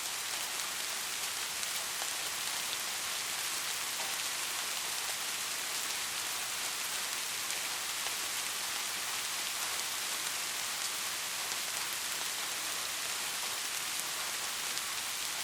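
Steady rain falling, an even hiss dotted with many small individual drop hits.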